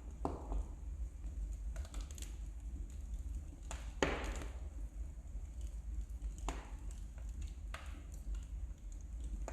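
Wood fire in a fireplace crackling, with irregular sharp pops; the loudest pop comes about four seconds in, over a low steady rumble.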